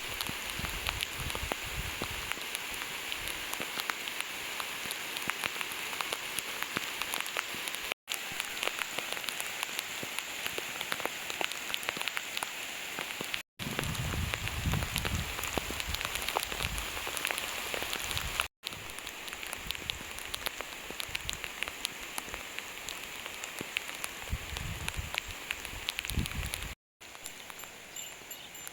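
Steady splashing, crackling noise of water, dense with tiny drip-like clicks, with low rumbles underneath; it drops out for an instant four times.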